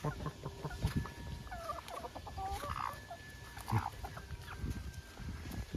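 A chicken clucking in short, scattered calls, over low knocks and rustling.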